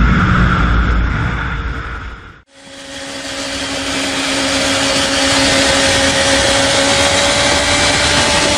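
Sport bike engine and exhaust: a loud rumble that fades out and cuts off about two and a half seconds in, then a steady high engine note that slowly rises in pitch.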